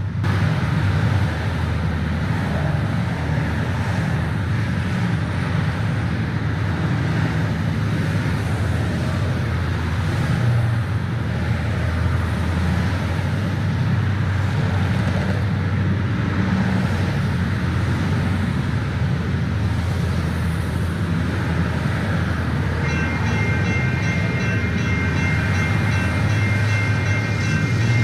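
Passenger train on the line, its low diesel drone and rolling noise running steadily. Near the end a high, rapidly repeating ringing tone comes in over it.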